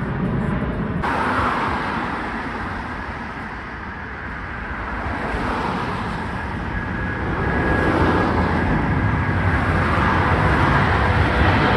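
Steady outdoor rumble of road traffic, with a jet airliner's engine noise growing louder over the last few seconds.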